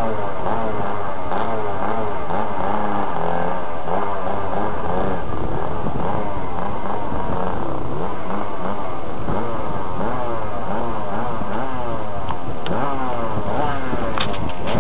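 Extra 300S radio-controlled model plane's JBA75 engine running, heard close up from a camera carried on the plane. Its pitch rises and falls over and over.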